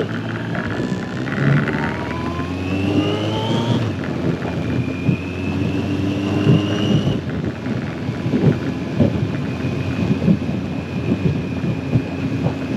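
Yamaha XJR1300's air-cooled inline-four engine accelerating away. Its pitch rises, drops suddenly at an upshift about four seconds in, rises again, shifts up once more about seven seconds in, then holds nearly steady.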